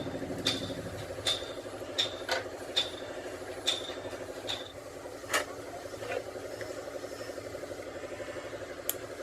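Sharp metallic clinks, about ten of them at irregular intervals with a brief ringing tone, over a steady, rapidly pulsing engine-like running sound.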